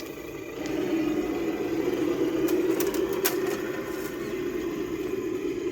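Traxxas TRX-6 six-wheel RC crawler driving, its electric motor and gears whining steadily and a little louder from about a second in. A few sharp clicks come around the middle.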